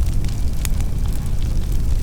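Wood fire burning in a fireplace: a steady low rumble of flames under scattered crackles, with one sharper pop about two-thirds of a second in.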